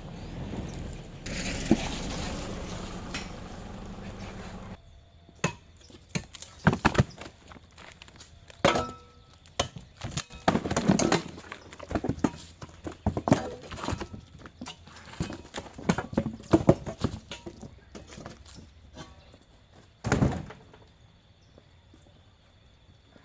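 Irregular hollow knocks and thuds of firewood logs being handled and stacked for a bonfire. Before them comes a few seconds of steady rushing noise that stops abruptly.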